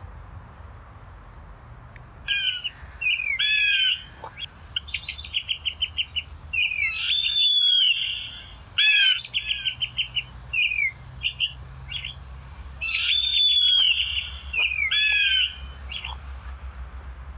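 A bird singing a long, varied song of sweeping whistles, chirps and rapid trills. It starts about two seconds in, pauses briefly and comes back for a shorter phrase near the end, over a steady low rumble.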